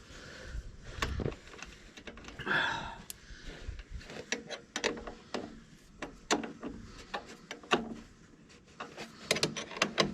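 Irregular clicks and knocks of a hand wrench working on battery cable connections as they are tightened, with a brief rustle about two and a half seconds in and a quick run of clicks near the end.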